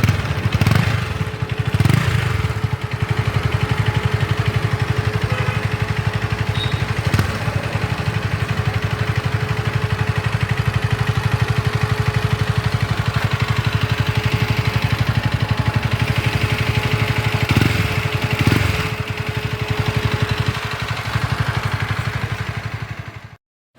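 KTM Duke 250's single-cylinder engine idling steadily through its exhaust, with a few short throttle blips: one near the start, one about two seconds in and one about eighteen seconds in.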